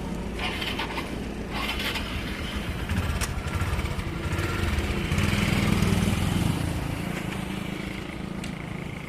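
Swaraj 744 XT tractor's three-cylinder diesel engine running, growing louder about halfway through and then easing off again.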